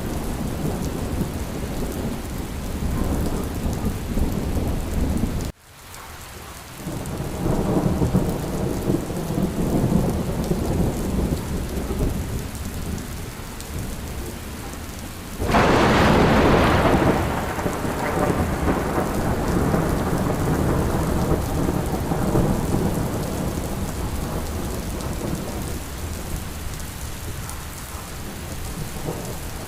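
Steady rain with rolling thunder. The sound cuts out for a moment about five seconds in, a rumble swells soon after, and about halfway through a loud thunderclap breaks and dies away over several seconds.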